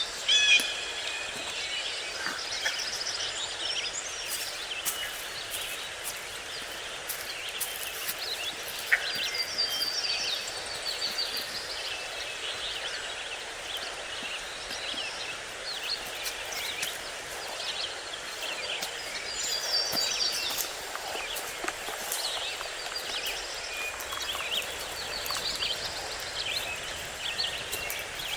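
Small songbirds chirping and singing in repeated quick phrases over a steady outdoor background hiss, with scattered faint clicks.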